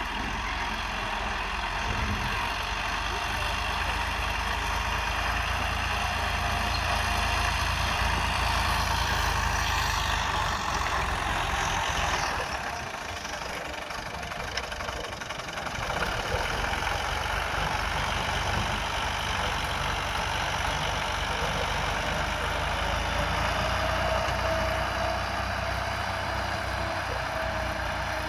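Fiat 480 tractor's diesel engine running at high power, easing off for a few seconds about halfway through, then picking up again.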